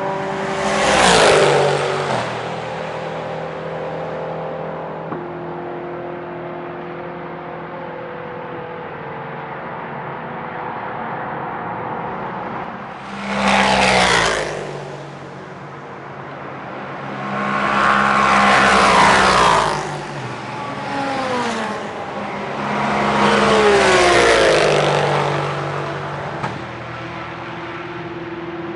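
Racing cars passing at speed four times, the engine pitch dropping as each goes by, with other cars droning in the distance between passes.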